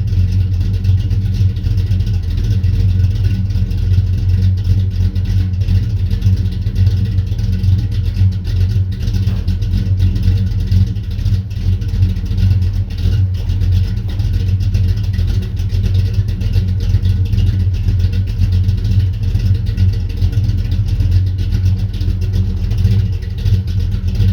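1970 Dodge Coronet's 440 big-block V8 idling steadily through headers and a 3-inch full exhaust, with the choppy lope of its Thumpr cam. The engine is warming up after a cold start.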